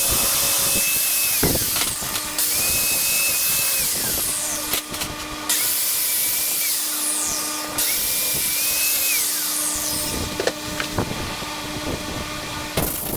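Angle grinder with a flap disc working a steel plate: its high whine drops in pitch about four times as the disc is pressed into the metal and climbs back when eased off, with a grinding hiss.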